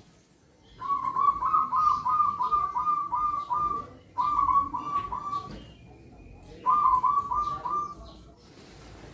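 Zebra doves (perkutut) cooing in three quick runs of short, staccato notes. The first run lasts about three seconds, and two shorter runs follow after brief pauses.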